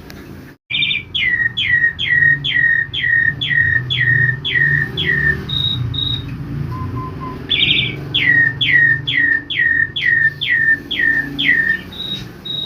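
Javan pied starling (jalak suren) singing: two runs, each a short rasping note followed by about eight whistled notes falling in pitch at roughly two and a half a second, with a few short high notes between and after, over a steady low background rumble.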